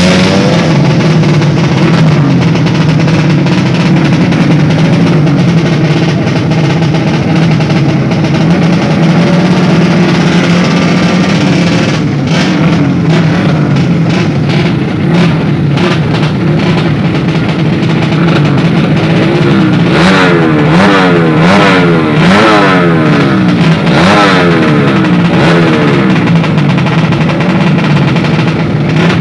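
Small drag-racing underbone motorcycle engine running at a fast, steady idle, then revved in a series of quick rising-and-falling blips from about twenty seconds in, as it waits to launch.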